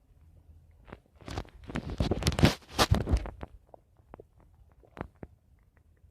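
Human stomach gurgling: a burst of crackly, bubbling pops from about one to three and a half seconds in, followed by a few faint scattered clicks.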